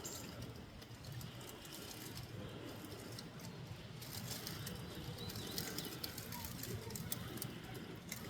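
Faint outdoor ambience: a steady low background hum with light rustling and clicks, and a few faint bird calls.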